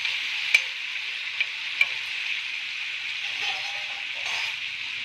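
Marinated mutton liver pieces sizzling steadily in oil and a little water in a black pan, giving off steam. A steel spoon clicks sharply against the pan about half a second in and twice more around one and a half to two seconds in.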